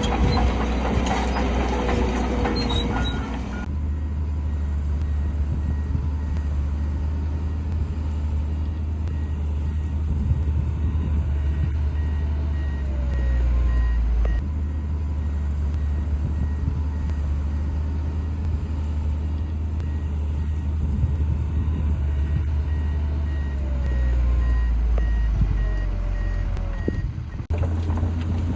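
Heavy diesel earthmoving machinery running with a deep, steady rumble. A reversing alarm beeps repeatedly through the middle part of the stretch.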